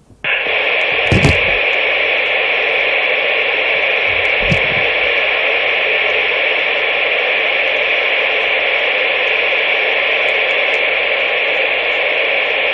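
CB radio receiver static: a loud, steady, band-limited hiss that switches on abruptly right at the start, with two short low thumps about one and four and a half seconds in.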